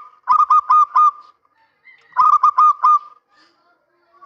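Male zebra dove (perkutut) cooing: two quick phrases of four short notes each, about a second apart.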